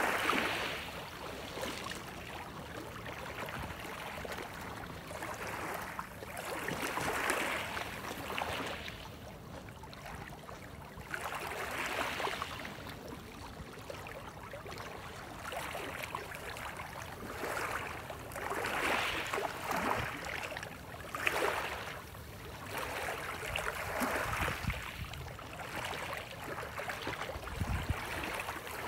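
Small waves washing in and drawing back, the water noise swelling in surges every few seconds.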